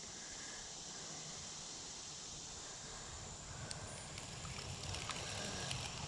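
Faint steady outdoor river ambience: a soft even hiss, with a low rumble building in the second half and a few light clicks.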